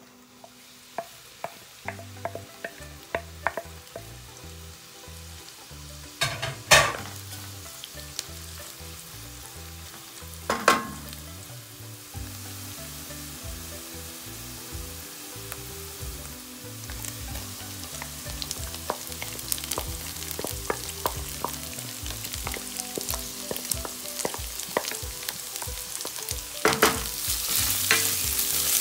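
Diced onion and celery sizzling and frying in hot oil in a pan, stirred with a wooden spatula. The sizzle grows steadily louder, with scattered pops and two loud crackles in the first half.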